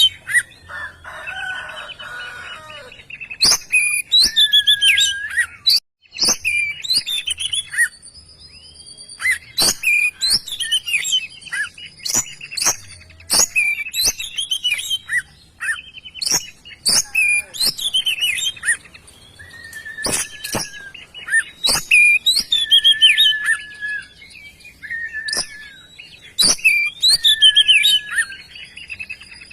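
Oriental magpie-robin (kacer) in full song: a long, varied run of slurred whistles broken by frequent sharp clicking notes.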